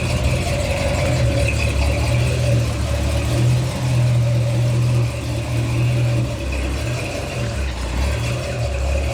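Car engine running steadily at low revs, easing off slightly about six seconds in.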